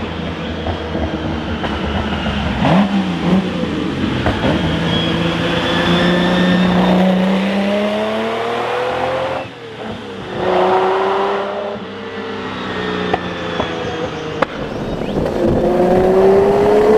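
Lamborghini Miura P400S's transverse mid-mounted V12 accelerating hard, its note climbing through the revs. It drops sharply about nine and a half seconds in as a gear is changed, then climbs again.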